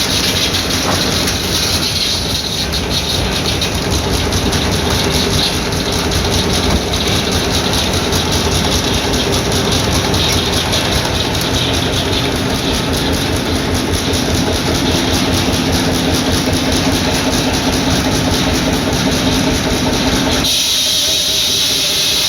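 Old circular sawmill at work with its hot-bulb engine running: a loud, steady mechanical din with a fast, even rhythm. About twenty seconds in, the heavier lower part of the noise drops away and a steady hiss is left.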